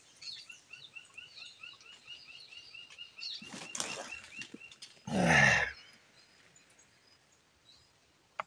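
A bird calls a rapid, even series of short chirps, about five a second, for the first three seconds. A rustle follows, then a short loud burst of noise with a falling low tone about five seconds in.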